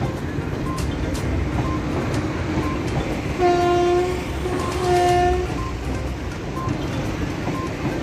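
Electric locomotive horn sounding two blasts, each about half a second long, over the steady rumble of a train running on the rails. Faint short beeps repeat about once a second in the background.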